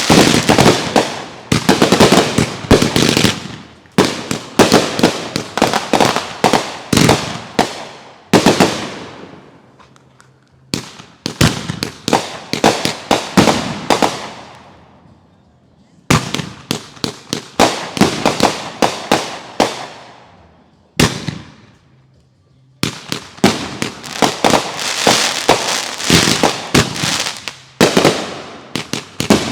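Consumer fireworks going off: rapid strings of sharp bangs, several a second, in runs of a few seconds with short lulls between them.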